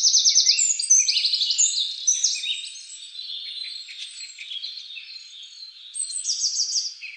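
Several songbirds chirping and calling at once, thin and high-pitched, with rapid trills near the start and again near the end.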